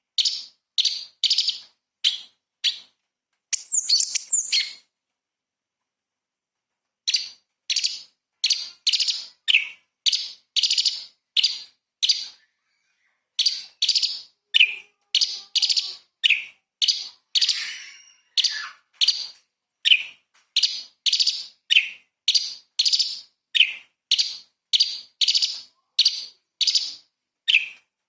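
Orange-bellied leafbird singing: a long run of short, loud, sharp notes at about two a second, broken about four seconds in by a quick run of gliding high twitters and then a pause of about two seconds, and by a second brief pause near the middle.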